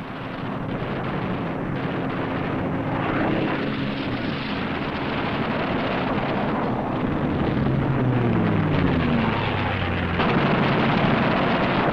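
Piston fighter aircraft engines droning over a noisy rush. The engine pitch falls twice as planes pass by.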